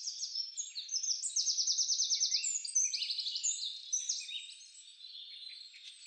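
Several wild birds singing in overlapping high chirps and fast trills, with a rapid trill of about ten notes a second in the middle; the calls thin out toward the end.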